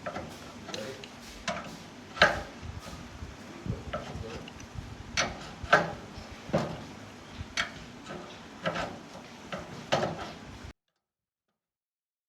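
Irregular light knocks and clicks, one or two a second and uneven in strength, as of objects being handled; the sound cuts out abruptly near the end.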